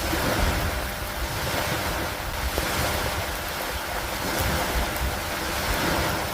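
Steady rain with wind, a gusty low rumble rising and falling underneath and a few faint drop ticks on top.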